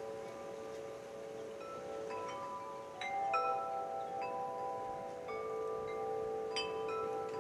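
Wind chimes ringing: tuned tubes struck at irregular moments, their tones overlapping and sustaining, with a cluster of strikes about three seconds in and another near the end.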